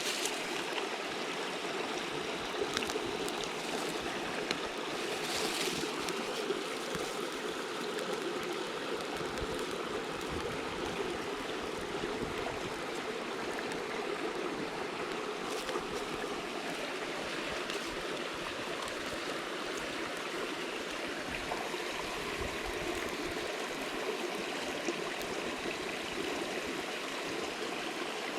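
Mountain stream flowing over rocks with a steady rushing, with a few faint sharp ticks now and then.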